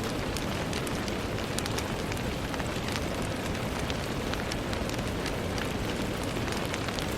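Steady rain pattering on a window pane, a constant wash of rain noise scattered with many small, sharp drop ticks.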